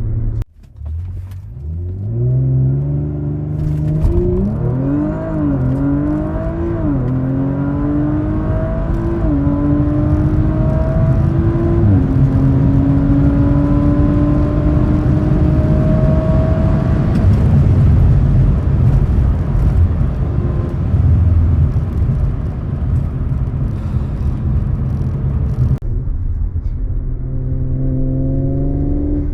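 2019 Audi RS5's twin-turbo V6, breathing through a carbon fibre intake, pulling hard from a launch. The engine note climbs and drops sharply at about four quick upshifts, then makes a long climb in a higher gear. After that, wind and road noise take over, and near the end the engine settles to a steady cruise.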